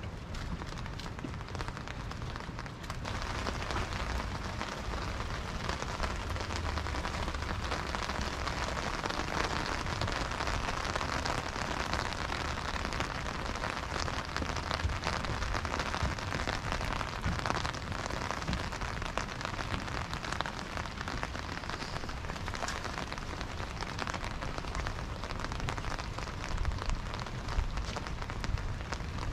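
Steady rain falling on a wet dock and the water around it, a dense hiss of fine drop impacts that gets a little louder about three seconds in.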